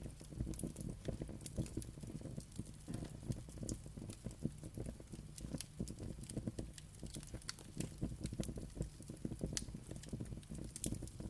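Wood fire burning in a fireplace: a low rumble of flame with irregular sharp crackles and pops throughout.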